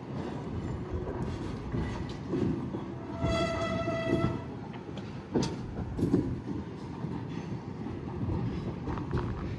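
Freight train moving during switching, with a steady low rumble from the diesel locomotive and cars. About three seconds in, a single pitched tone lasts about a second, and there are two sharp knocks a little over a second apart near the middle.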